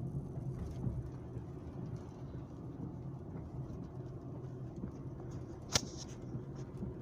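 Steady low rumble of engine and road noise heard from inside a moving vehicle, with one sharp click near the end.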